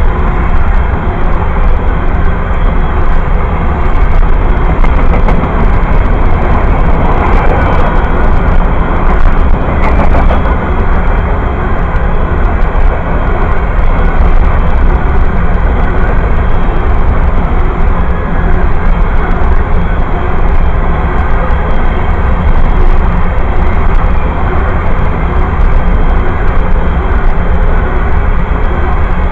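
Freight train passing close by: a loud, steady rumble and clatter of cars rolling on the rails, with no letup.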